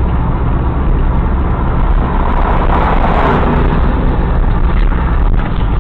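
Dash-cam audio of a vehicle on the road: steady, loud engine and road rumble, with a louder rushing swell about two and a half seconds in.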